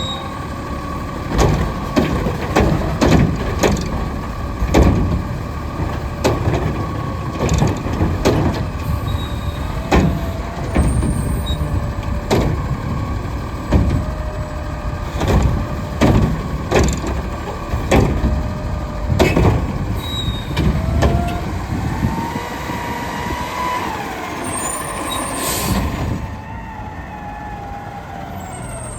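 Diesel Autocar garbage truck with a McNeilus front loader and Curotto can at work: the engine runs under a steady whine, with many bangs and clatters throughout. Late on the whine wavers in pitch, and near the end there is a brief air-brake hiss.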